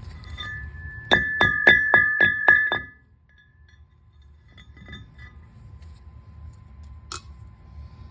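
A hammer striking a steel part about seven times in quick, even succession, each blow ringing out, as when a wheel bearing is driven in or out. A faint click follows near the end.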